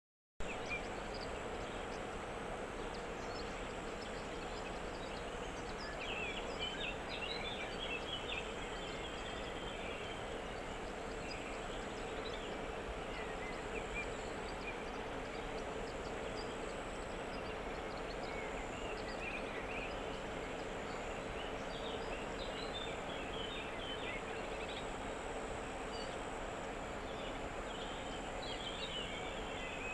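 Steady outdoor background noise with a low hum, and short bursts of high bird chirping now and then.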